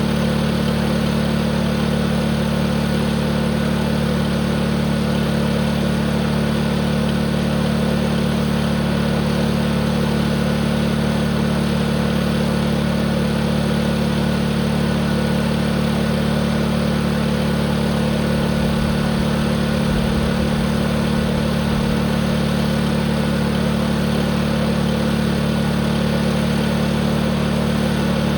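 Tractor engine running steadily at a constant high speed, held at full throttle, with no change in pitch or level.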